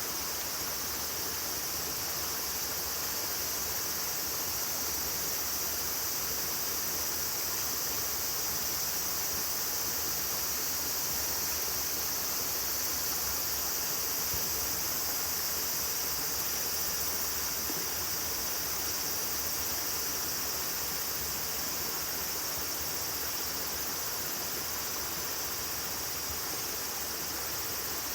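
Steady insect chorus: a continuous high-pitched trilling that holds the same level throughout.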